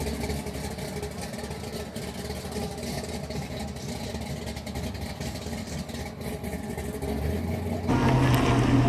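A vehicle engine idling steadily. Near the end the sound turns abruptly louder, with a deeper steady hum.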